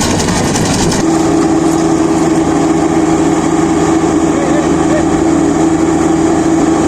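Kubota DC-35 rice combine harvester running steadily. About a second in, a rattling, hissy noise gives way to a steadier drone with a strong, even hum.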